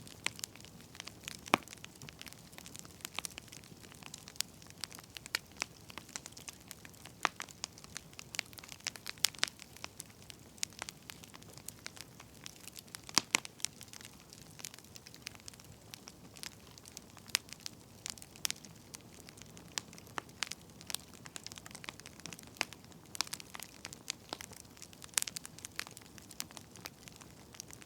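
Burning firewood crackling: irregular sharp pops and snaps, several a second at times, over a soft steady hiss.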